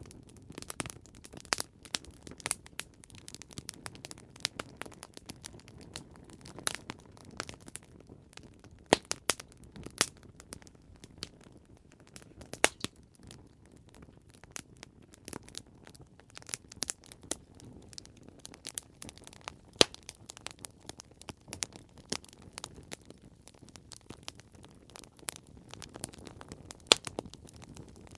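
Campfire crackling: irregular sharp pops and snaps of burning wood over a low, steady hiss of the flames, with a few louder pops now and then.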